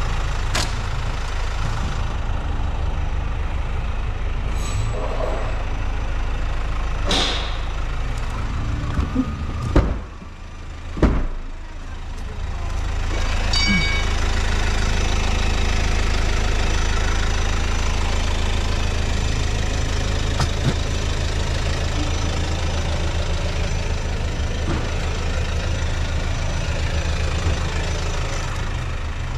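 Car engine idling with a steady low rumble. About ten seconds in there are two sharp knocks with a brief drop in level between them, and then the idle carries on a little louder.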